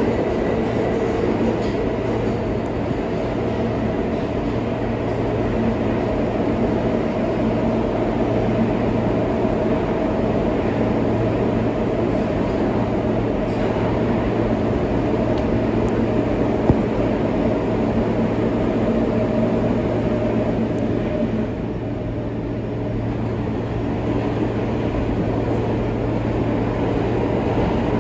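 R143 subway train running along the track, heard from on board: a steady rumble of wheels on rail with a constant motor hum. About 21 seconds in the hum's higher tones drop away and the noise eases a little; there is one sharp click a few seconds before that.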